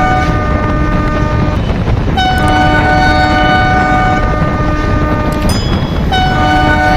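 Henschel diesel locomotive's chord horn sounding three long blasts over the loud, steady running noise of a fast-moving train. One blast ends about a second and a half in, the next is held for about three seconds, and a third begins near the end.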